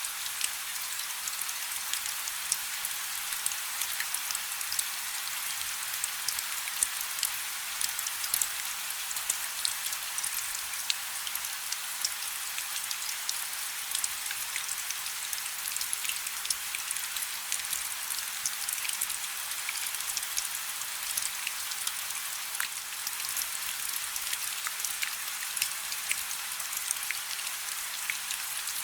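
Steady rain falling on a river, a dense even hiss of countless small drops hitting the water, with sharper individual drop ticks crackling through it.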